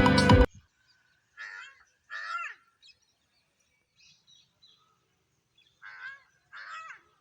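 Music cuts off about half a second in, then a bird gives harsh screaming calls: two close together, a few fainter ones, then another pair near the end.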